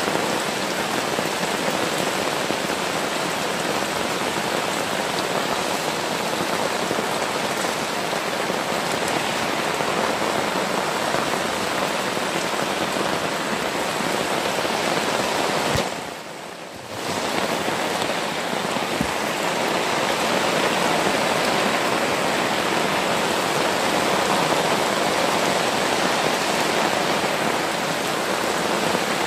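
Heavy rain falling steadily, a dense even hiss, with a brief dip in level about sixteen seconds in.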